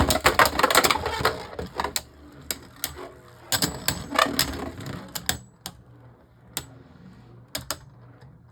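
Two Beyblade Burst tops spinning and colliding in a plastic stadium, clattering and clicking. The clatter is dense just after the launch, then thins to scattered sharp clicks from about five seconds in.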